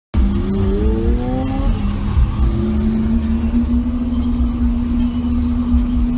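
Car engine revving, its pitch rising over about the first second and a half and then holding steady, with music playing.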